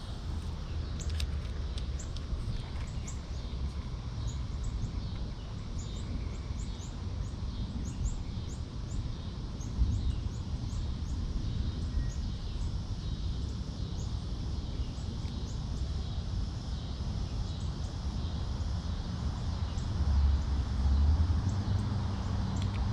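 Outdoor ambience: a steady low rumble that swells louder about ten seconds in and again near the end, with small birds chirping quickly and repeatedly through the first half.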